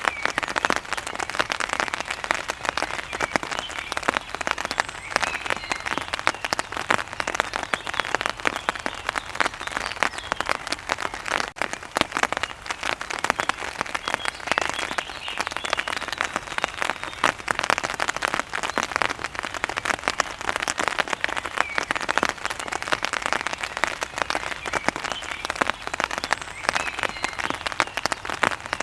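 Steady heavy rain: a dense, even patter of many drops striking a surface, with faint short bird chirps now and then.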